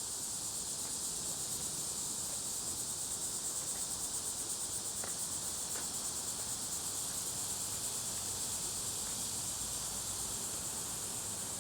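Insects chirring in a steady, high-pitched chorus with a fast, even pulse.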